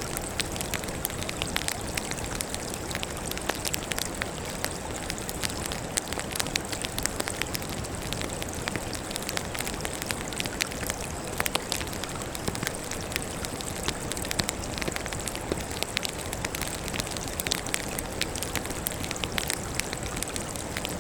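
Burning firewood crackling: a steady hiss with frequent irregular sharp pops and snaps.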